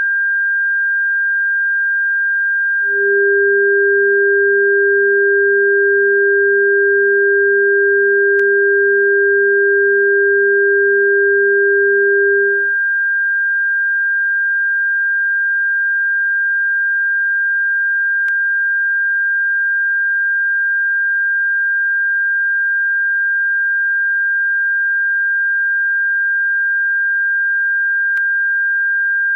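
Electronically generated pure tones played as a bird-repellent frequency: a steady high-pitched whistle-like tone, joined about three seconds in by a second, lower tone that cuts off after about ten seconds. Faint clicks come about every ten seconds.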